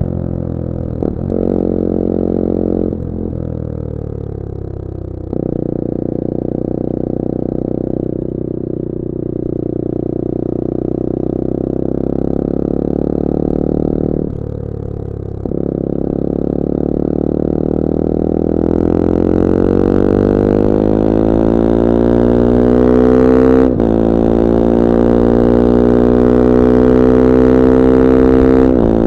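2021 Bullit Hero 250's CF Moto 250cc four-stroke engine running on the road, with several brief dips where the pitch steps at a gear change. Over the last ten or so seconds the engine note climbs steadily in pitch as the bike accelerates, broken once by a quick shift.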